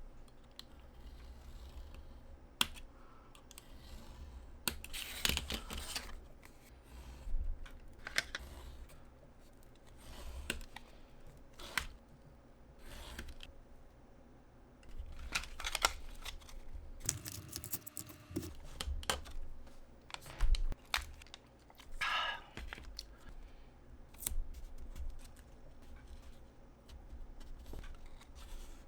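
Scissors snipping in short, scattered runs of cuts, mixed with small handling clicks and rustles of craft material.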